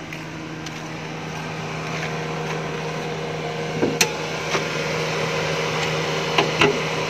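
Suzuki Every Wagon's K6A 660cc turbo three-cylinder engine idling with a steady hum, growing louder over the first couple of seconds as the hood is opened. A few short sharp clicks come about four seconds in and again near six and a half seconds.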